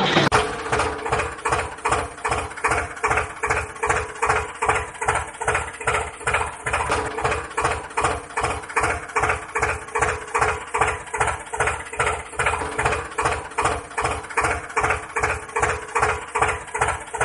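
Miniature toy tractor engine running steadily, an even chugging of about three to four beats a second with a steady hum under it.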